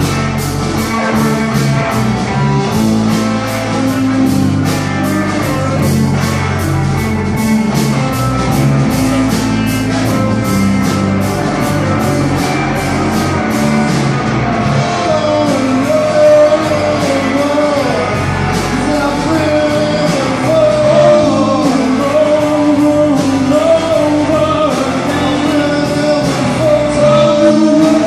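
Live rock-blues band music: guitar and drums keep a steady beat, and a singer's voice comes in about halfway through.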